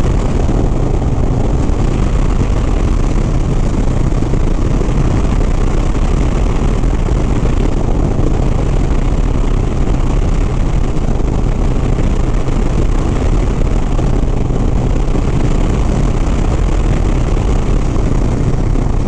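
Harley-Davidson Sport Glide's V-twin engine running at a steady highway cruise, with a constant low drone and heavy wind rush over the rider's microphone.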